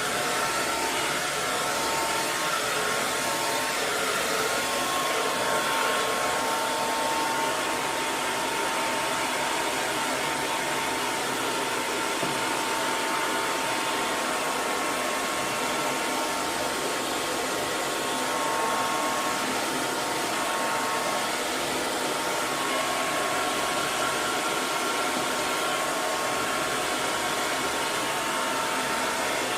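Electric hair dryer running continuously: a steady, unchanging rush of blown air with a faint motor whine.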